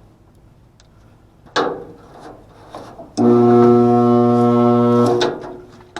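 Blower motor energized with a loud, steady electrical hum for about two seconds, starting suddenly and then fading out; the motor stops right away and its wheel is stiff and hard to turn by hand, the sign of a motor that is seizing. A single knock comes about a second and a half in.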